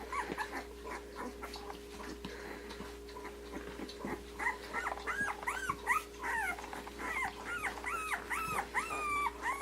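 Two-week-old Australian Shepherd puppies whimpering and squeaking: a string of short, high-pitched cries that starts about halfway through and keeps coming, after faint shuffling.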